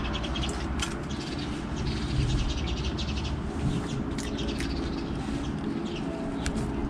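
Small birds chirping, many short high calls coming and going, over a steady low background hum.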